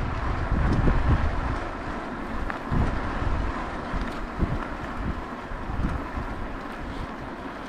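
Wind buffeting the microphone of a camera riding along on a moving bicycle: a steady rush broken by uneven low gusts.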